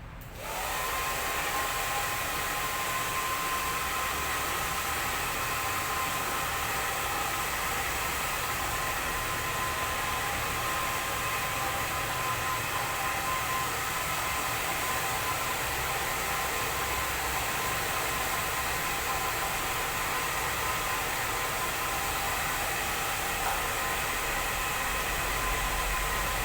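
Hand-held hair dryer switched on about half a second in, then running steadily: a rush of air over a steady motor whine.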